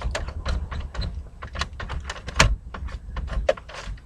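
Quick rubbing strokes and small knocks, several a second, as a car's interior is wiped out by hand.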